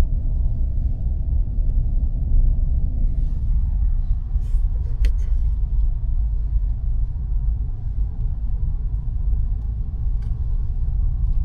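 Steady low rumble of a vehicle driving slowly, with a few short clicks about five seconds in and once more near the end.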